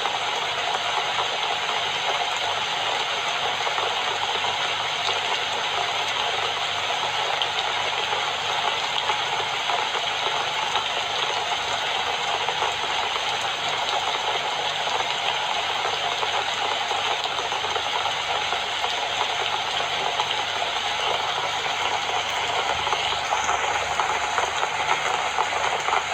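Steady rainfall, an even, unbroken rushing noise.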